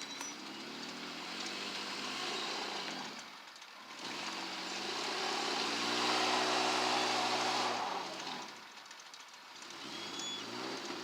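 Cars passing by one after another, each swelling and fading with a shifting engine note and tyre hiss; the loudest passes about halfway through.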